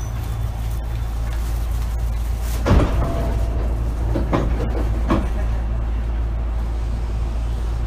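Hankyu 8000-series train car from inside: a steady low hum, with a sharp knock about three seconds in and two lighter knocks a second or two later.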